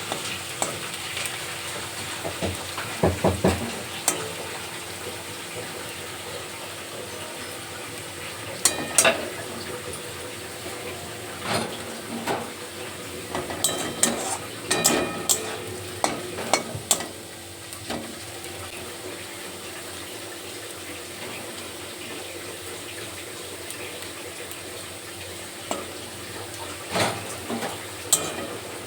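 Onions sizzling as they fry in oil in a pan, being browned. A spatula clinks and scrapes against the pan in short spells of stirring, several times, most of them around the middle.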